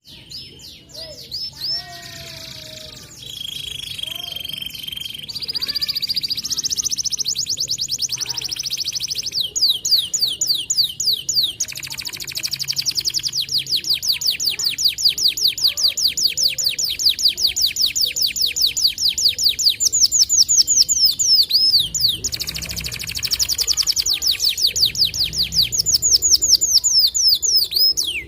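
White canary singing a long, continuous song of rapid trills and rolls, repeated notes racing several times a second, with a few held whistled tones.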